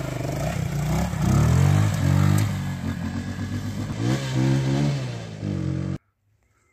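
Off-road motorcycle engine revving up and down in repeated surges as the bike works on a muddy dirt slope. The engine sound cuts off suddenly near the end.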